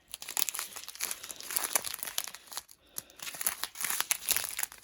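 Small plastic bags of diamond-painting drills crinkling as they are handled, in two bouts with a brief pause between them.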